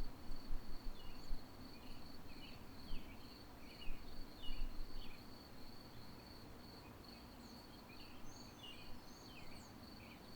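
A steady, high, pulsing insect trill, like crickets, with scattered short bird chirps in two bursts.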